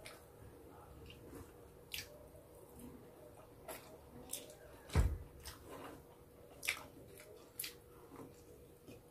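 Close-up eating sounds: a person chewing roast chicken and rice eaten by hand, with scattered wet smacks and clicks of the mouth and fingers. A single louder thump comes about halfway through, over a faint steady hum.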